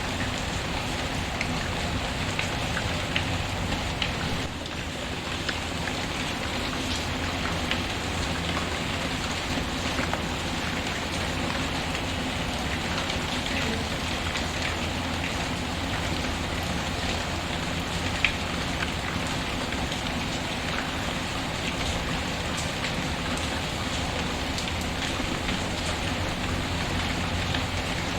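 Steady rain falling on a surface, mixed with the scattered crackle and ticks of a wood fire. There is one louder pop about eighteen seconds in.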